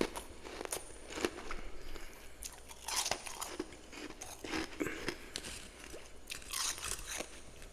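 A person biting and chewing freezer frost close to the microphone, with irregular crisp crunches.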